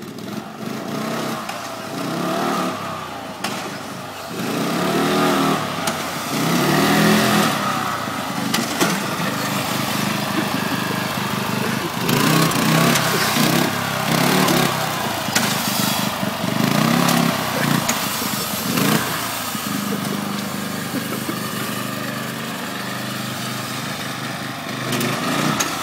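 Small engine revving up and down again and again, its pitch rising and falling with each rev.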